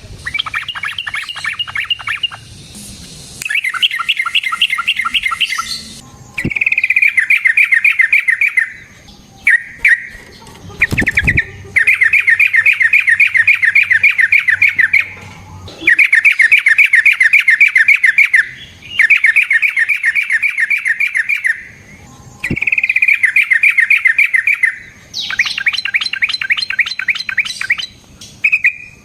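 Yellow-vented bulbul (trucukan) singing in long, fast, bubbling phrases of repeated notes, each phrase lasting a second or three with short pauses between, in the excited 'gacor' song used to lure other bulbuls. A low thump about eleven seconds in.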